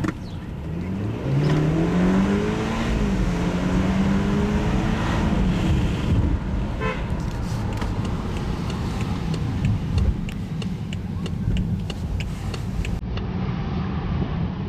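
The 2013 BMW 528i xDrive's turbocharged four-cylinder engine pulls under acceleration, its note rising and then holding steady over a constant rumble of road noise. A few light clicks come later on.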